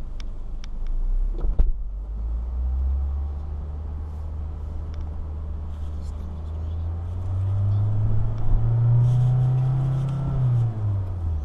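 2018 Kia Forte S four-cylinder engine being revved while parked. The revs step up and hold near 2,000 rpm, then climb to about 4,500 rpm before dropping back near the end. A few light clicks come in the first two seconds.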